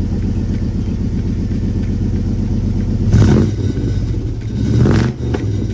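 Truck engine idling, then revved twice: a short blip of throttle about three seconds in and a second one near the end.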